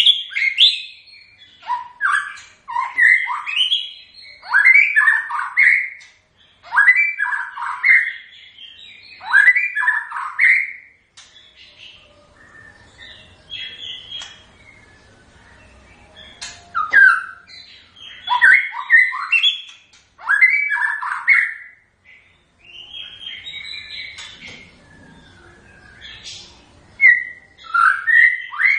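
White-rumped shama singing: loud, varied whistled phrases repeated every second or two, with a quieter stretch of softer notes about halfway through before the full song resumes.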